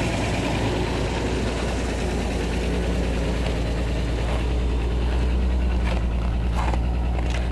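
1985 Toyota Cressida's rebuilt engine idling steadily, still running a little cold soon after a cold start in deep frost.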